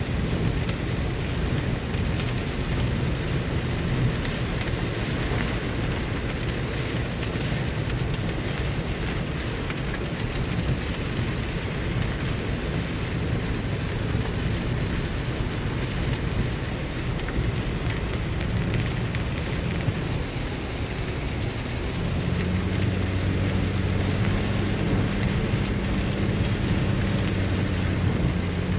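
Rain falling on a moving car, with steady road and engine noise underneath; the low engine hum grows stronger about three quarters of the way through.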